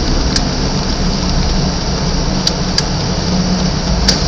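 Car engine running with road noise, heard from inside the cabin while driving, with a few short sharp clicks.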